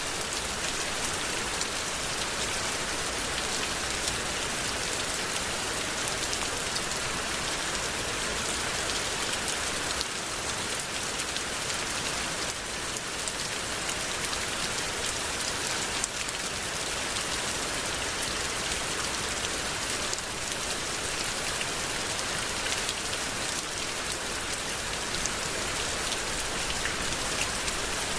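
Steady rainfall: a continuous hiss of rain falling and drops hitting a surface.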